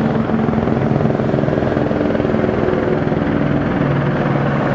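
Helicopter flying nearby: a steady, rapid rotor beat over a continuous engine drone.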